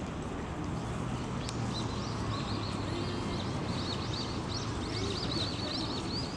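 A small songbird twittering: a quick run of short, high chirps that starts about a second and a half in, over a steady low background hum.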